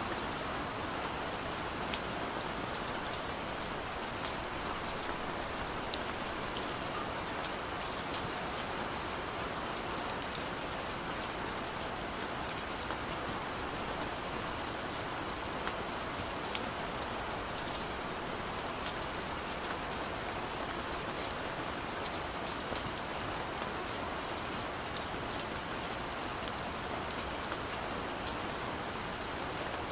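Gentle steady rain falling, a continuous hiss with many small scattered drop ticks and no thunder.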